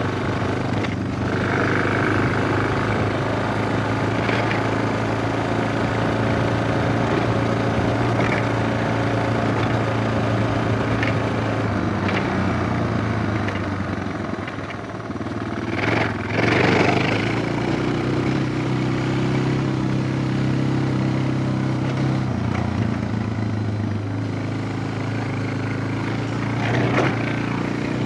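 Suzuki DR650's single-cylinder engine running under way, its pitch steady for long stretches. The throttle comes off and back on about halfway through with a short loud rev, and the pitch drops again and picks up near the end.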